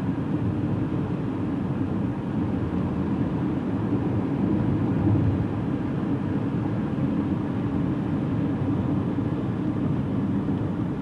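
Steady low road and engine noise inside a moving car, rumbling evenly.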